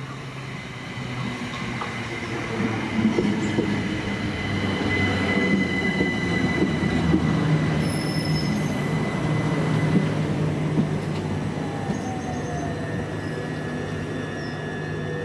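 Electric multiple-unit train running on the rails, growing louder for the first several seconds and easing slightly near the end. A steady high whine sits over the running noise, with scattered clicks from the wheels.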